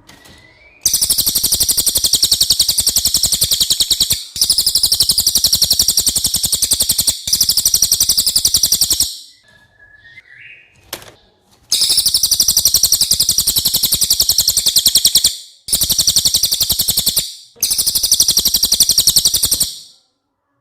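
A cililin bird singing long, very rapid, high-pitched trills in six bursts of about one and a half to three and a half seconds each, with a longer break in the middle. During the break there is a faint short chirp.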